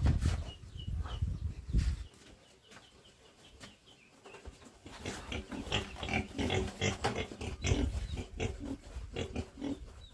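Pigs grunting, a quick run of short calls from about four seconds in, after a low rumble in the first two seconds.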